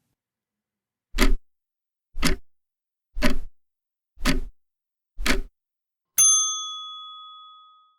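Countdown-timer sound effect: five clock ticks about a second apart, then a single bell ding that rings out and fades away over about two seconds.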